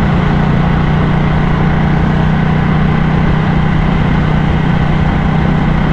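Ducati motorcycle engine running steadily with an even, unchanging note.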